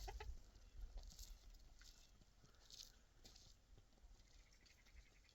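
Near silence with a few faint, short crunching and rustling noises and soft ticks scattered through it.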